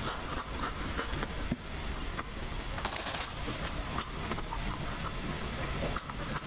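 Close-up chewing and biting of fried pork ribs: irregular crisp clicks and crunches, over a steady low rumble.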